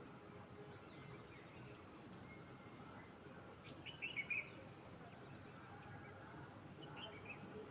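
Small birds chirping and calling, with short high notes and trills scattered through, the loudest a quick cluster of chirps about four seconds in, over a faint steady outdoor background.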